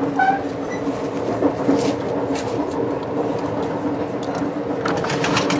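Interior of an Amtrak passenger car while the train is moving: a steady hum and rumble, with scattered clicks and rattles.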